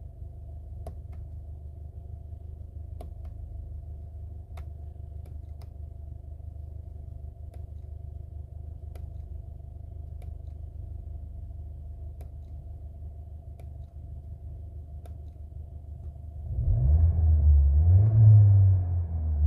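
Seat Tarraco's 1.5 TSI four-cylinder petrol engine idling steadily while parked, heard from inside the cabin. Near the end it is revved up to about 3,000 rpm, then drops back.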